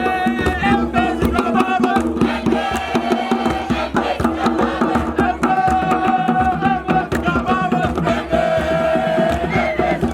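Group of voices singing a chant together over steady percussion, with sharp drum or hand-clap strikes.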